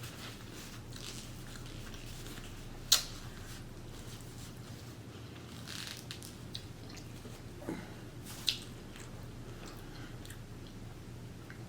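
Close-miked chewing and biting of seafood boil shrimp and corn, with wet mouth sounds and a few sharp smacks, the loudest about 3 seconds in. A faint steady low hum runs underneath.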